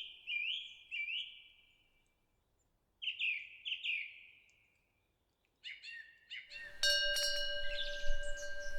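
Small birds chirping in short groups of quick sweeping notes, with brief silences between groups. About seven seconds in, a Korean temple wind bell (pungyeong) is struck and rings on with several steady overlapping tones while a bird keeps calling.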